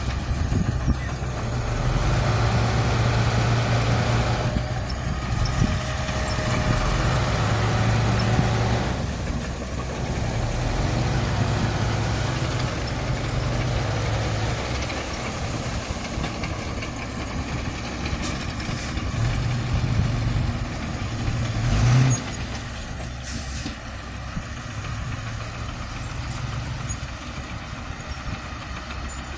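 Heavy diesel earthmoving machinery running, the engine note swelling and easing with load, with one sharp bang about two-thirds of the way through.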